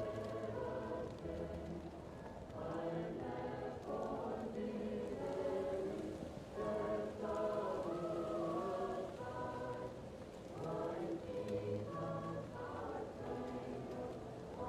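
A choir singing a slow hymn-like carol, muffled as if heard from another room, over a faint steady crackle.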